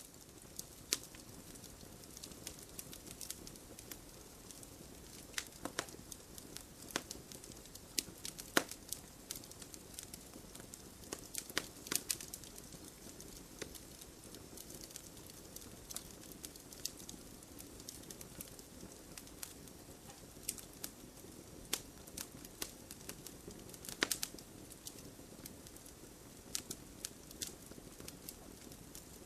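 Fireplace fire crackling: a soft steady rush under frequent irregular sharp pops and snaps, a few of them louder than the rest.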